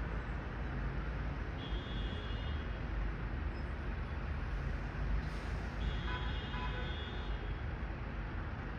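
Steady low outdoor rumble, with two brief high-pitched squeals, one about a second and a half in and a longer one about six seconds in.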